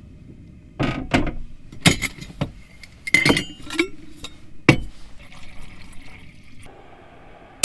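Dishes and cups clinking and knocking, about seven separate strikes, a few with a short ringing tone, over a low steady background hum, while a hot drink and breakfast are prepared in a small trailer kitchen.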